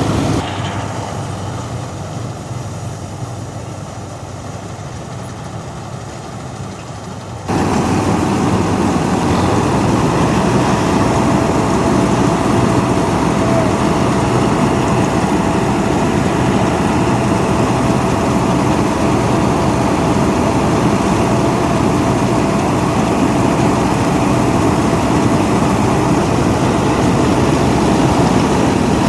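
A wheat-harvesting machine's engine running steadily with a heavy, even mechanical drone. It is quieter for the first several seconds, then jumps abruptly louder about seven and a half seconds in.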